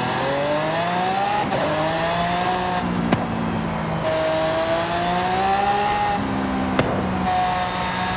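Mercedes GT 4-Door Coupé engine accelerating through the gears. The pitch climbs and falls back at each upshift, about three times, with two sharp cracks along the way.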